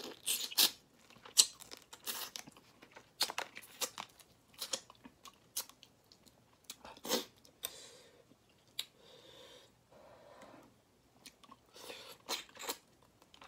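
Chewing and crunching on whole shrimp in mala sauce, the shells bitten through, heard as a run of irregular sharp crackles with short pauses.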